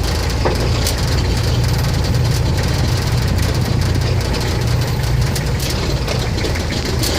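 Safari jeep engine running with a steady, low drone, and a few short clicks over it.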